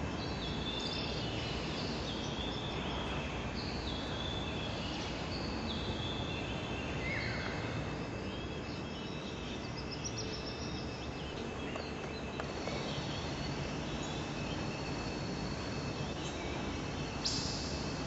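Small birds calling in short, high, downward-sliding chirps, many of them in the first seven seconds, then fewer, over a steady background noise. A brief sharp sound comes near the end.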